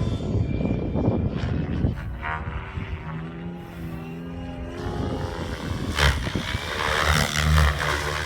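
Gaui X7 radio-controlled helicopter in flight, its rotor and motor giving a steady pitched hum. Wind buffets the microphone throughout, with a strong gust about six seconds in.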